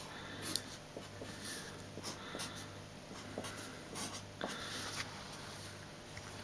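Handwriting: a pen making short scratchy strokes, irregular and faint, over a steady low electrical hum.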